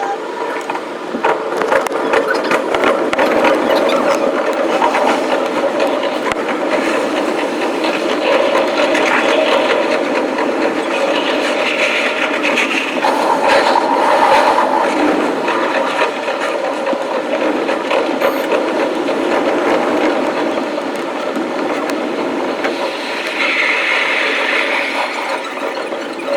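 Electric commuter train running on rails, with a steady rumble and dense rattling clicks from wheels and car body, and a brief high wheel squeal twice, about halfway through and near the end.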